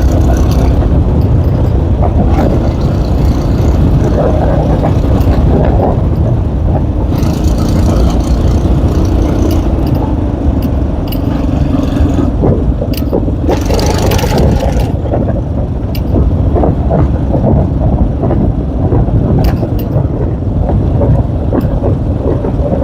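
Small enduro motorcycle being ridden, its engine running under a heavy low rumble, with scattered knocks and rattles and two brief hissy stretches about a third and two thirds of the way through.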